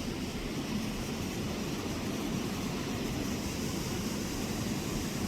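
Steady rush of flowing water from the waterfall and stream, an even hiss with no breaks.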